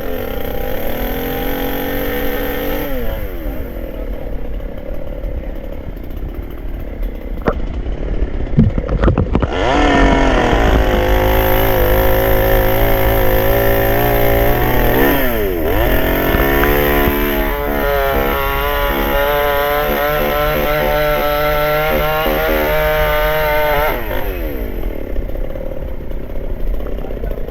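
Chainsaw cutting up a fallen peepal tree. It revs up about a second in, drops back after a couple of seconds, then revs again and holds high through a long cut with a brief dip in the middle, before falling back to idle near the end.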